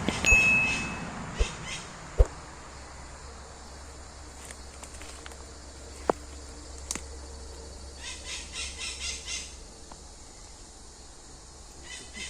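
Outdoor woodland sounds. A brief rustle with a short high tone at the start, a few sharp clicks, then a quick run of high chirps about eight seconds in, like a bird calling.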